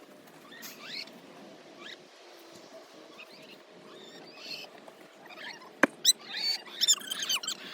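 Chickens giving many short, high-pitched chirps and peeps, busier in the second half, with two sharp knocks about six seconds in.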